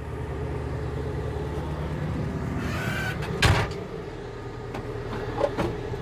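Volvo skid steer's diesel engine running steadily, heard from the cab, its drone shifting about two seconds in. One loud clunk about three and a half seconds in, then a few lighter clicks.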